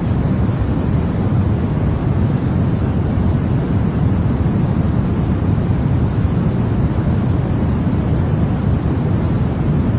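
Continuous sleep-aid white noise: a steady, even hiss weighted toward a deep rumble, with no change in level or pattern.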